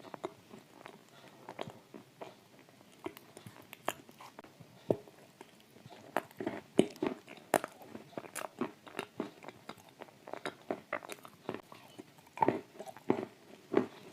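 Close-up chewing of dry shortbread cookie coated in thick clay paste: irregular crisp crunches and wet, sticky mouth sounds, getting busier about halfway through.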